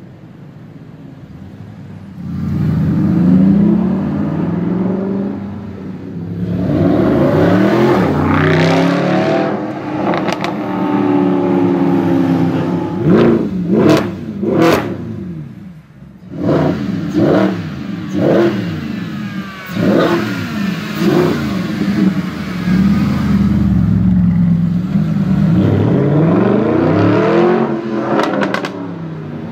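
Mercedes SLS AMG's V8 through an Akrapovic exhaust: a low idle, then repeated hard revs and accelerations whose pitch climbs and falls back with each gear change. Several sharp cracks come from the exhaust about halfway through and again near the end.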